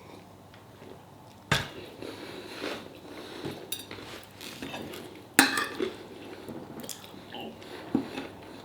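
Cutlery clinking and scraping against a plate while eating, with two sharp knocks, one about a second and a half in and one about five seconds in.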